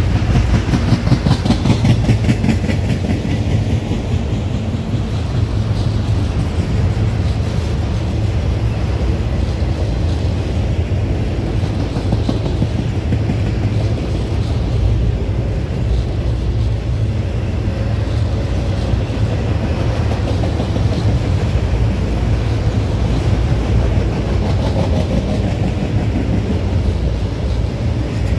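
Freight train of autorack cars rolling past: a steady rumble of steel wheels on rail with rapid clickety-clack over the rail joints, strongest in the first few seconds.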